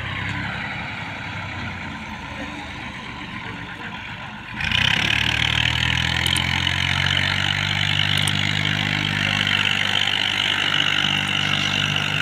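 Tractor engine running steadily. About four and a half seconds in it suddenly gets much louder and stays at that louder, steady level.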